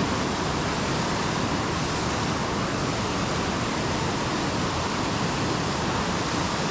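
Creek water rushing and splashing over rocks and small falls, a steady, even rush that stays the same throughout.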